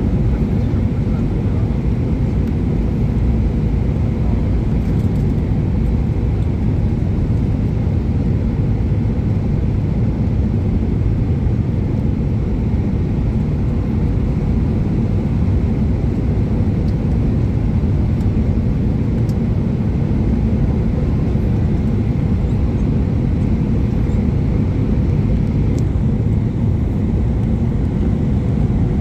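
Steady low rumble of an airliner's engines and airflow heard inside the passenger cabin on approach to landing.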